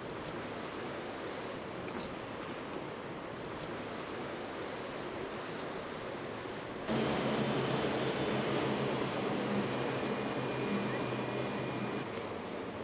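Rushing surf and wind noise. About seven seconds in, a boat engine's steady drone cuts in abruptly over the water noise and cuts out about five seconds later.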